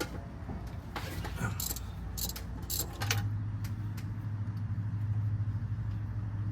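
A few light metallic clicks and clinks, then a steady low mechanical hum that starts abruptly about three seconds in.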